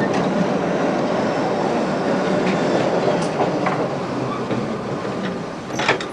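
Tram rolling on its rails with a steady rumble and scattered wheel clicks, with a sharper clatter near the end.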